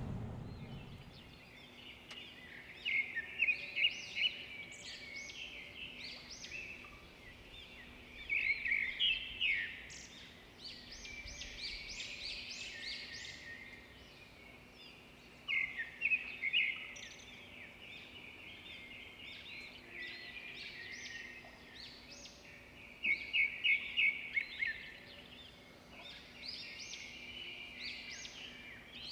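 Small birds chirping in quick runs of high notes, coming in bursts every few seconds over a faint steady hum.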